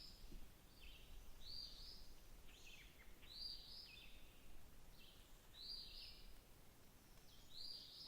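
A songbird repeating the same short, high call about every two seconds, with fainter notes in between, heard faintly over a low background rumble.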